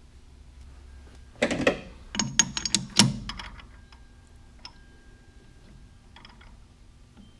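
A quick cluster of sharp metal clinks and clatter, steel parts or a tool being handled and set down, with a faint ring after, over a steady low hum.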